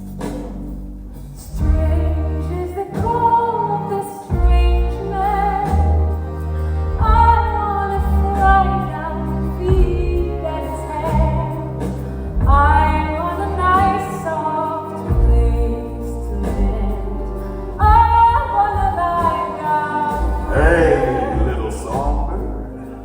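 Singing over a live band accompaniment with sustained low bass notes, from a stage musical's score.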